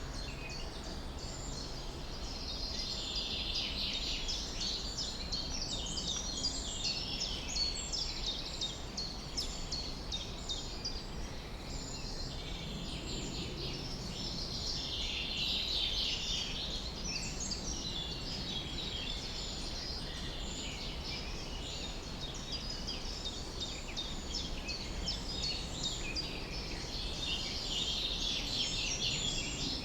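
Many small birds chirping and singing at once, a dense chorus of quick high notes that swells and eases in waves, over a steady low rumble.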